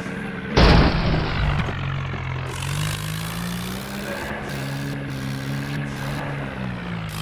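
Tractor diesel engine running, with a loud, sudden burst of noise about half a second in. After it the engine note rises and wavers, as under throttle.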